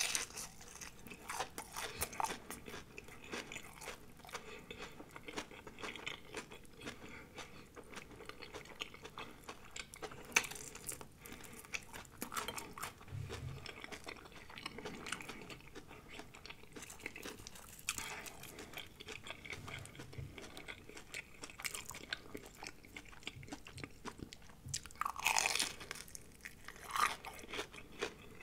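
Close-miked crunching and chewing of batter-fried shrimp: irregular crisp crackles of the breading with wet mouth sounds, louder about ten seconds in and again near the end.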